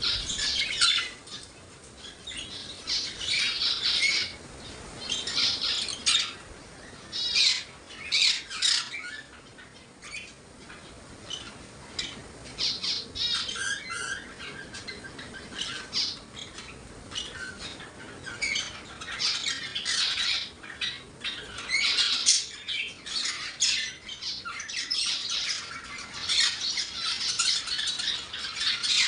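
A group of small caged parrots squawking and chattering, with many harsh, shrill calls overlapping and repeating without a break.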